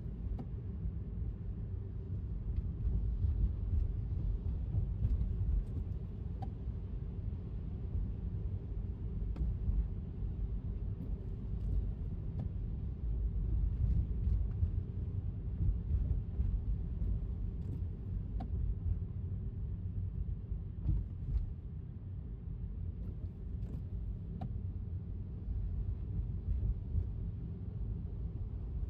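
Steady low road rumble of a car driving on wet city streets, with a few faint scattered ticks.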